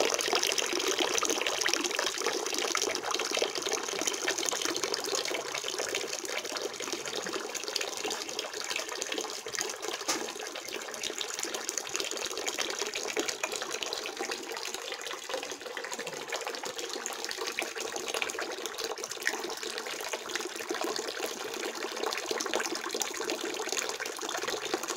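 Small DIY garden waterfall: water pouring and splashing steadily, a little louder in the first few seconds.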